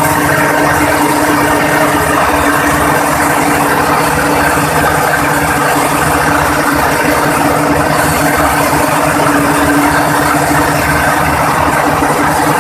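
Marine diesel auxiliary engine running steadily at constant speed, with a steady hum over the dense mechanical clatter.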